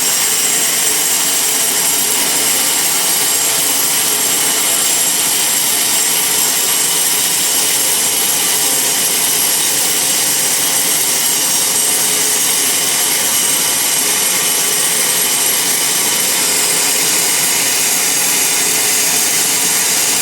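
Band sawmill running steadily without a break, its blade sawing through a large log.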